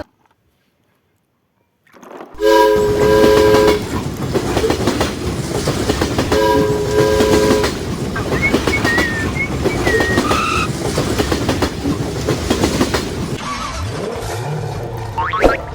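A train running on rails, starting about two seconds in, with its horn sounding twice, each a held chord of about a second.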